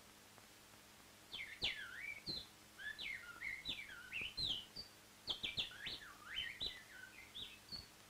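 Bird chirping: a quick, busy run of swooping whistled notes that rise and fall sharply, starting about a second in and continuing almost to the end.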